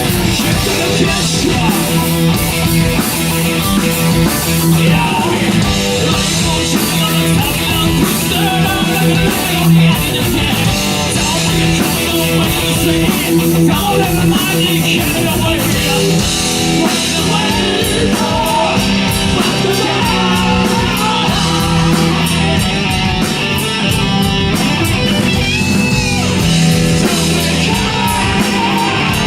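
Live hard-rock band playing loudly: electric guitar over bass and drums, with singing.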